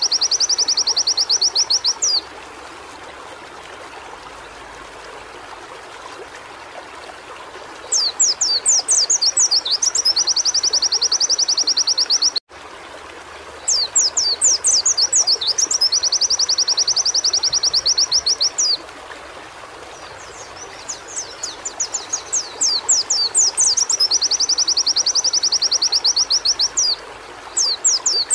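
White-eye (pleci) singing: phrases of quick high down-slurred notes that run into a fast, even trill, each lasting a few seconds and repeating about every six to eight seconds, with a steady hiss in the pauses.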